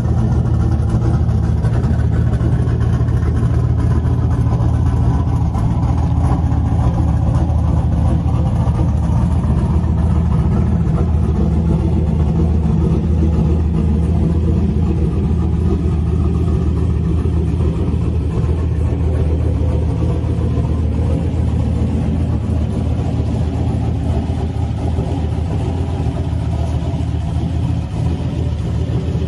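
Loud classic muscle car engine running steadily at low revs, with a deep rumble and no big revs.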